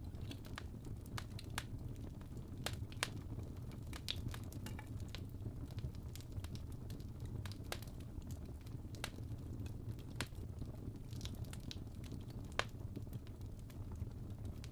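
Coal fire burning in a fireplace: a steady low rumble with irregular sharp crackles and pops, one louder pop near the end.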